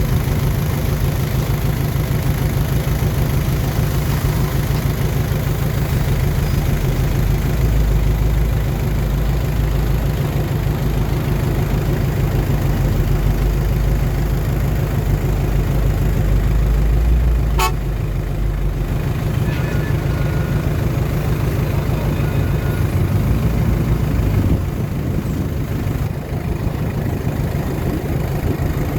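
Bulldozer's diesel engine running steadily under load with a deep, fast throb that grows heavier for a stretch and then eases a little past halfway, where a single sharp click sounds.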